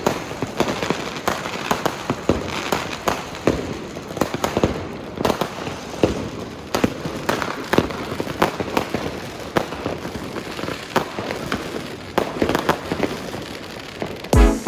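Many fireworks and firecrackers going off together: a dense, irregular run of bangs and crackling pops with no steady rhythm.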